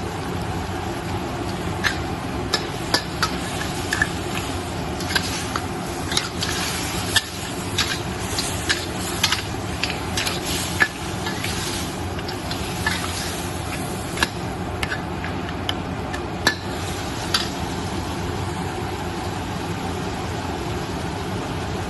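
Crab being stir-fried in a pan: a spatula clacks and scrapes against the pan in quick, irregular strokes over a steady frying hiss. The strokes thin out after about 17 seconds.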